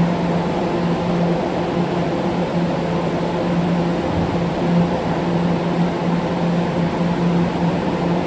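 Steady mechanical drone: a low, constant hum with fainter higher overtones over a wash of noise, unchanging throughout, the kind of drone a standing subway car's equipment or station ventilation gives off.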